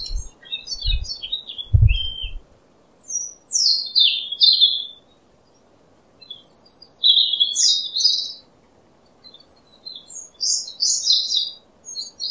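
Small birds chirping in short, high twittering phrases with gaps between them. In the first two seconds, three dull thuds of a small hammer tapping miniature fence posts down.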